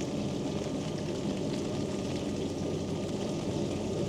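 Quingo Toura Mk2 mobility scooter running along wet pavement in the rain: a steady, even hum and tyre noise with rain hiss over it.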